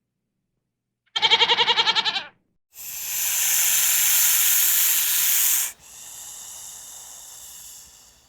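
An animal's quavering bleat lasting about a second, followed by a long, loud hiss that drops to a quieter hiss for the last few seconds.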